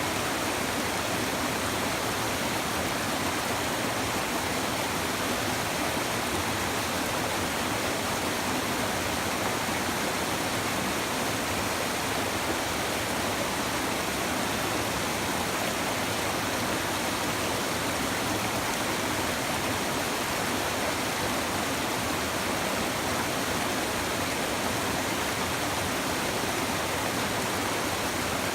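Shallow river water babbling over stones, a steady, even rush with no breaks.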